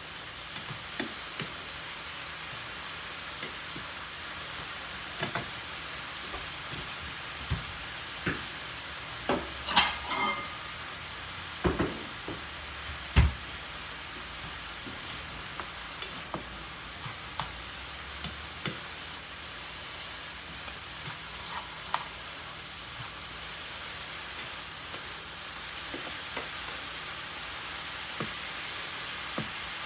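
Cauliflower fried rice sizzling steadily in a pan while it is stirred, with irregular clicks and knocks of the spatula against the pan, a few louder ones around the middle.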